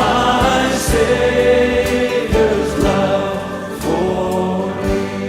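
Background hymn music: a choir singing held chords over accompaniment.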